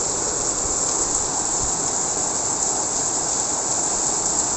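Heavy rain falling steadily in a strong wind storm, an even hiss with some low rumbling from the wind.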